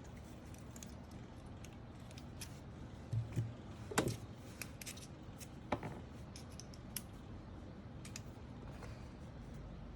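Scissors snipping in scattered light clicks, with a few louder knocks of parts being set down about three to four seconds in and again near six seconds.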